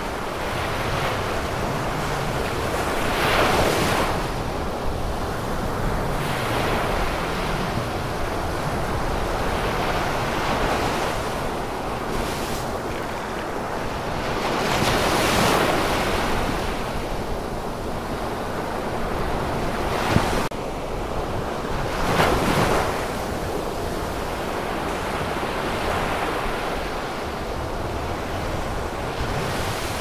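Ocean waves washing in a continuous surf, swelling louder three times as bigger waves break. One brief sharp click comes about two-thirds of the way through.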